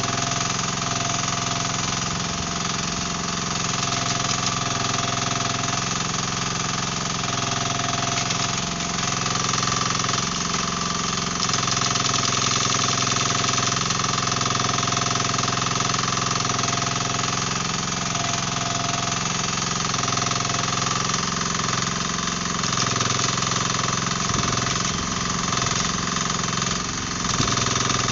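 Mini excavator's diesel engine running steadily at working revs while its hydraulic breaker hammers at concrete slabs.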